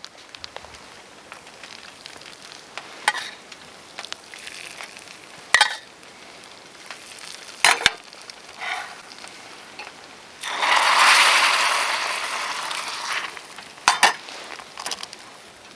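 Camp cooking: sharp clinks and knocks of metal utensils on pots, and about ten seconds in a loud sizzle that fades over some three seconds.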